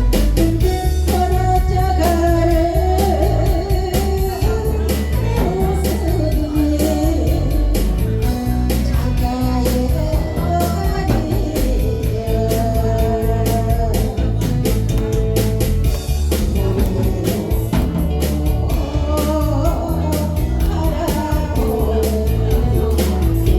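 A vocalist singing a Korean trot song over a band backing with a steady beat, heavy bass and guitar.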